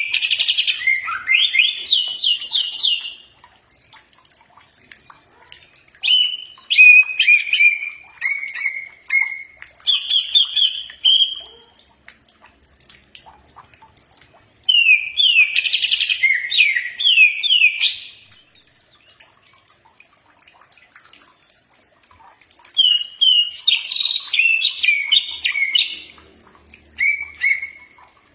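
Green leafbird (cucak ijo) singing: loud bursts of rapid, sliding whistled notes, each phrase a few seconds long, with pauses of a few seconds between phrases.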